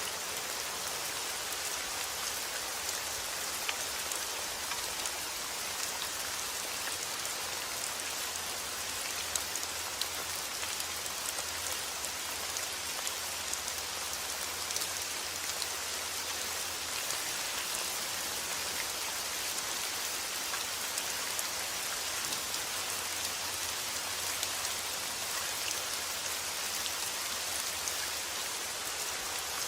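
Steady rain falling: a dense, even hiss of rain with many individual drops ticking through it.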